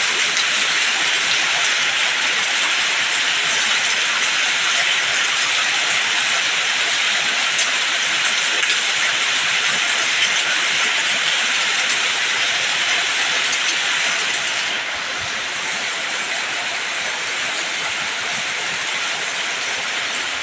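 Heavy rain falling steadily, an even hiss that eases a little about fifteen seconds in.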